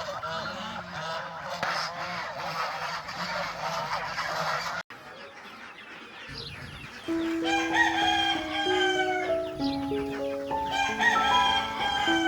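A dense chorus of farm poultry calling, chickens among them, cut off abruptly about five seconds in. About two seconds later a simple music melody of held notes begins, with chicken calls heard over it.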